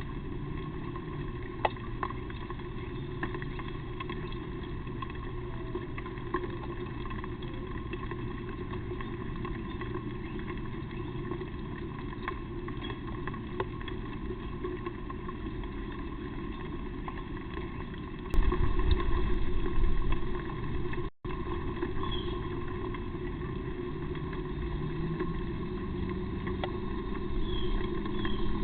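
Steady low background drone with a faint engine-like hum that rises in pitch near the end, and a brief loud low rumble about eighteen seconds in.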